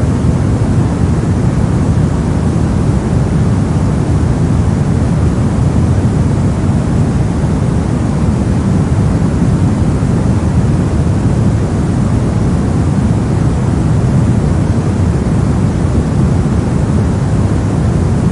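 Brown noise: a steady, loud, deep rushing hiss with most of its weight in the low end, unchanging throughout.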